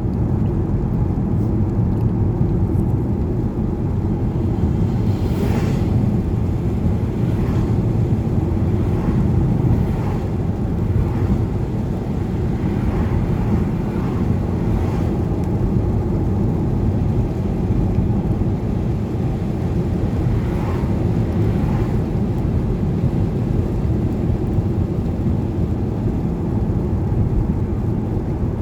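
Steady road and engine noise of a moving car heard from inside the cabin, a low even rumble with faint swishes now and then.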